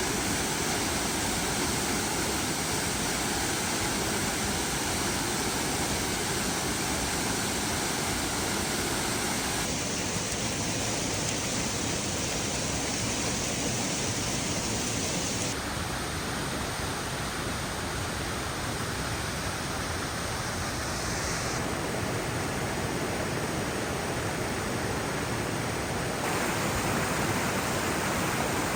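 Steady rushing of a waterfall, even white noise across the whole range, with sudden shifts in tone where the shots cut from one view of the falls to another.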